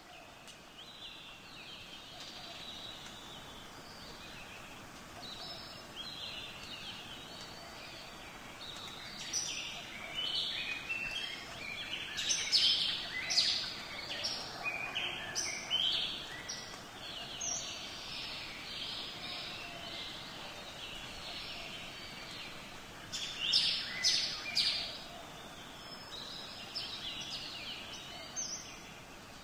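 Birds chirping and calling in many short, quick notes over a steady background hiss, busiest in the middle and again in a brief flurry near the end.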